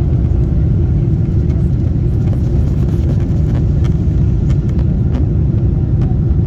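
Steady low rumble of a Boeing 747-8's engines and rushing air heard inside the cabin, with a constant hum over it and a few faint ticks.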